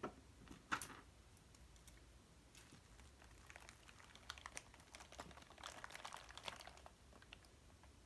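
A quiet, irregular run of light clicks and taps with some soft rustling, like small objects being handled.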